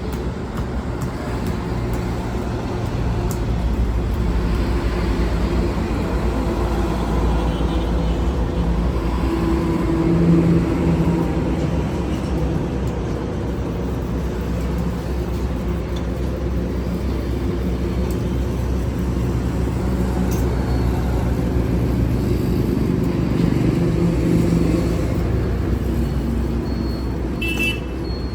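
A vehicle engine running steadily with a low drone, its pitch shifting slightly and swelling louder a few times.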